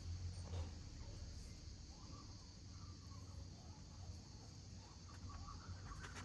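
Outdoor ambience: a steady high insect drone with faint bird calls in the second half, over a low steady rumble.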